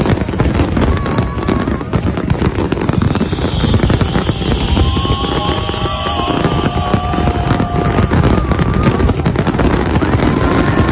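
Large fireworks display at full barrage: a dense, continuous rattle of bangs and crackles with no pause.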